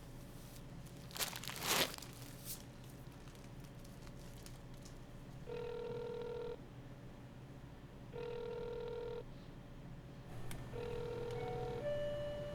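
Telephone ringback tone heard on the line, three rings of about a second each, about two and a half seconds apart, with no one answering. A brief rustle comes about a second in, and a different steady tone starts near the end.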